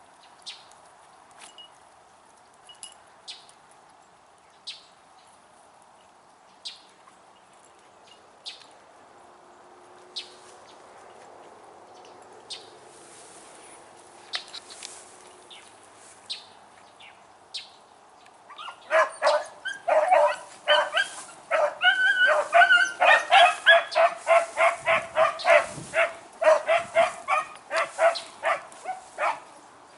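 Pack of beagles giving tongue while running a rabbit's scent: for the first part only occasional faint single yelps, then about two-thirds of the way in the pack breaks into loud, rapid, continuous baying.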